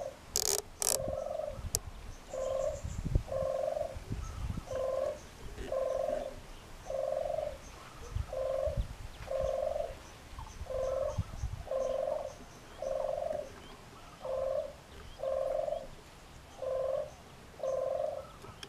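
A bird calling: a short, low hoot on one steady pitch, repeated evenly about once a second over and over. A couple of sharp clicks come just under a second in.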